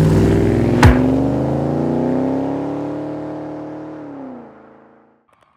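Car engine revving hard, with a sharp crack about a second in, then the engine note falls away and fades out.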